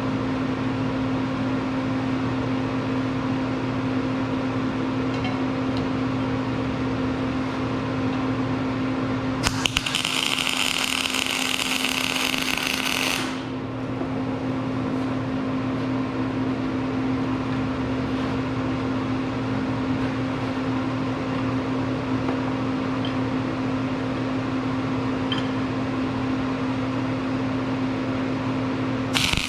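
Steady hum of a welder's cooling fan. About nine seconds in, an arc weld is struck with a few sharp crackles and burns with a bright, frying hiss for about four seconds, then stops. Another weld starts right at the end.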